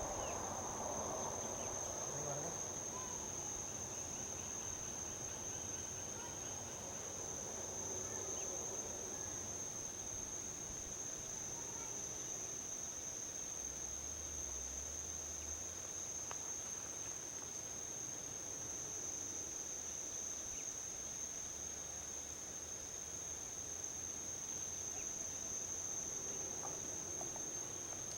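A steady, high-pitched chorus of crickets trilling without a break, over a low rush of distant highway traffic that swells briefly at the start and again near the end.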